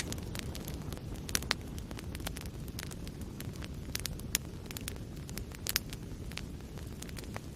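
Wood fire burning in a fireplace: a steady low rumble of flames with irregular sharp crackles and pops, a few louder snaps about a second and a half in, around the middle and near three-quarters through.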